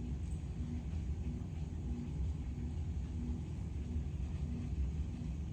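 Steady low hum of a running machine, with a faint short pulse repeating about one and a half times a second.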